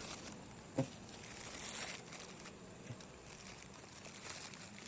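Plastic wrapping crinkling and rustling, with a brief pitched squeak about a second in.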